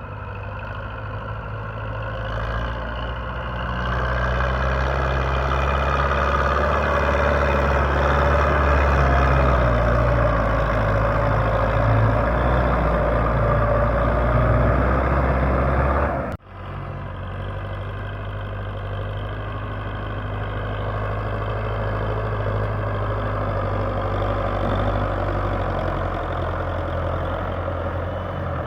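Farm tractor's diesel engine running steadily, growing louder a few seconds in and holding at that level. It breaks off abruptly about sixteen seconds in, then an engine runs steadily again at a lower level.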